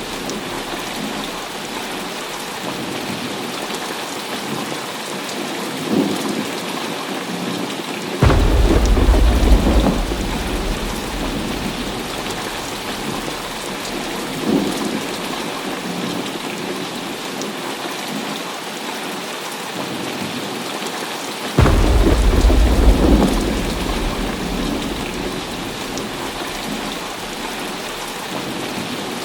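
Heavy rain falling steadily, with two sudden deep thunderclaps, one about a third of the way in and one about three quarters in, each rolling off over a couple of seconds.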